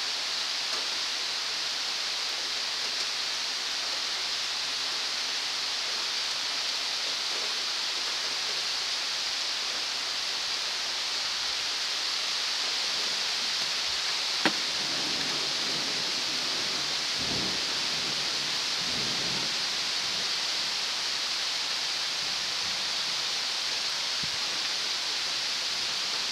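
Heavy rain pouring down as a steady hiss. There is one sharp click about halfway through and a few faint dull rumbles after it.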